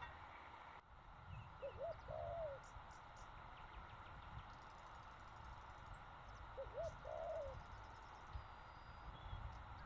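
A dove cooing: two short phrases of low, arching notes about five seconds apart, over a steady background hiss.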